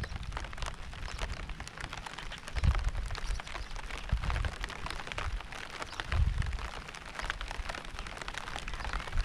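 Rain falling, with many separate drops striking close by over a steady hiss. Short low rumbles come through about two and a half, four and six seconds in.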